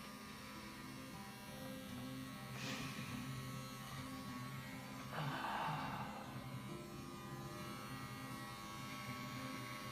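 Electric hair clippers buzzing steadily as they shave a head, over soft background music, with a brief louder rasp about five seconds in.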